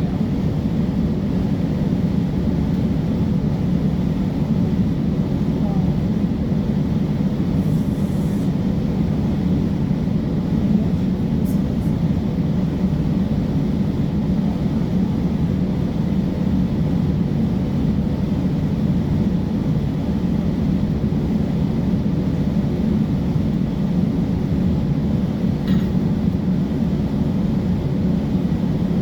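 City transit bus running, a steady low rumble of engine and road noise that holds even throughout.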